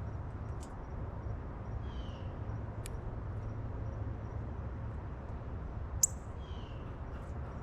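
Two short, falling bird calls over a steady low outdoor rumble, with two sharp taps, the second and louder about six seconds in.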